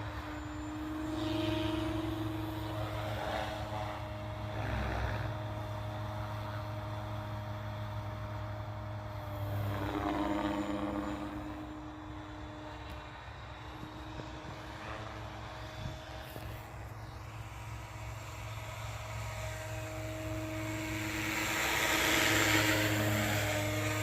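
Three-blade SAB Goblin 570 6S electric RC helicopter in flight: a steady rotor and motor drone that swells and fades as it flies nearer and farther. It is loudest near the end.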